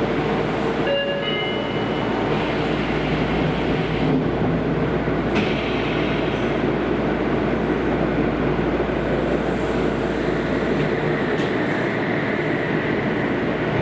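Interior running noise of a Kobe City Subway 5000-series linear-motor train in its tunnel: a steady, dense rumble of wheels and motor. A few brief electric tones sound about a second in.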